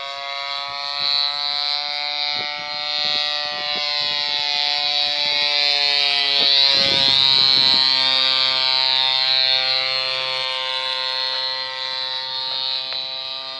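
Small two-stroke grass-cutter engine driving a homemade fixed-wing RC airplane in flight: a steady, high-pitched drone that grows louder toward the middle and eases off again, its pitch wavering slightly.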